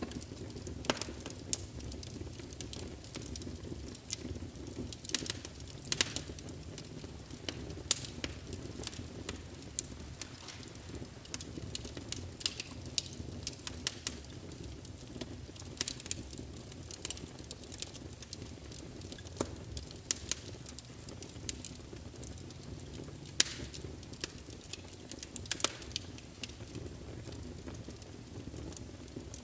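Wood fire crackling in a fireplace: irregular sharp pops and snaps, several of them louder, over a steady low rumble.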